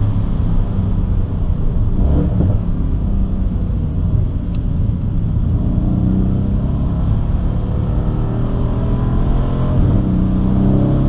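2016 Mercedes-AMG C 63 S twin-turbo V8 heard from inside the cabin, driven hard on track, its engine note rising and falling as the driver accelerates and lifts through the gears.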